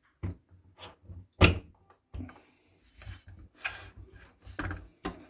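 Handling of a plastic electric kettle: a sharp knock about a second and a half in, some rubbing, then several clicks as it is set up and switched on. No running or heating sound follows, because the kettle is dead.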